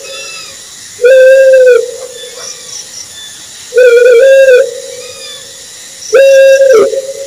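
An owl hooting three times, about every two and a half seconds. Each hoot is a steady, slightly arching note under a second long, followed by a fainter echo.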